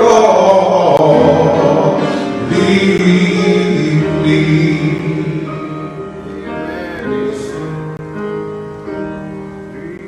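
Gospel singing with instrumental accompaniment. The singers' last held note breaks off about a second in, and the sustained accompanying chords fade out gradually.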